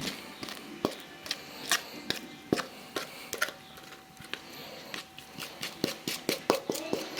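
A spoon knocking and scraping against cookware while brownie batter is transferred: a run of irregular clicks and taps, several a second.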